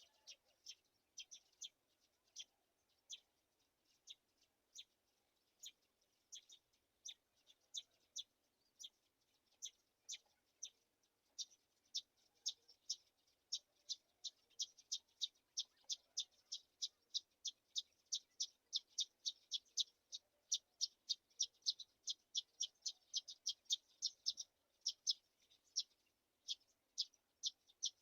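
Black-shouldered kite chicks giving short, high chirping calls over and over, a chirp every second or so at first, then quickening to about three a second after the first ten seconds.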